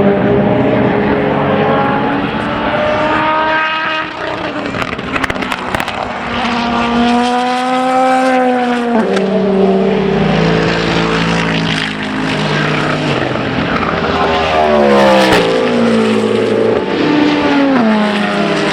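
Endurance racing cars on track, their engines revving hard, with pitch climbing and dropping in steps through gear changes as several cars pass.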